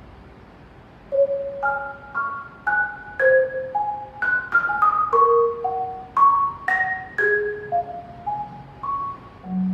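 Solo marimba played with mallets. After a pause of about a second, it plays a slow, unevenly spaced line of single notes and two-note chords, each struck and left to ring briefly, moving up and down in pitch.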